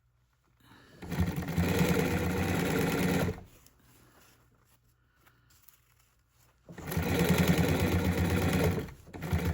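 Sewing machine stitching a zipper into an armrest cover in two runs of rapid, even stitching: one starting about a second in and lasting a little over two seconds, the second starting near seven seconds, with a brief stop near the end.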